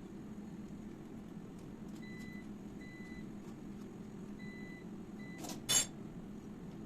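Four short electronic beeps of the same pitch from a household appliance, over a steady low hum, followed by two sharp clicks in quick succession near the end.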